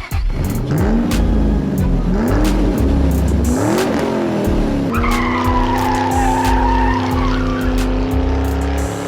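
Car engine sound effect revving up and down three times, then a held engine note with a tyre squeal over it from about halfway through, mixed over background music with a heavy bass beat.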